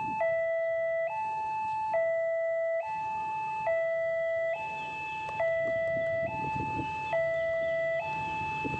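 Level crossing warning alarm sounding its electronic two-tone chime, alternating high and low notes just under a second each, signalling that a train is approaching. A low rumble builds underneath from about halfway through.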